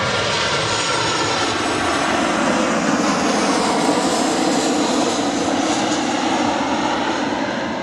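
Boeing 737-800 airliner's CFM56-7B jet engines running as it comes in to land, with a steady rush and a faint whine sliding slowly down in pitch; loudest about halfway through, then fading near the end.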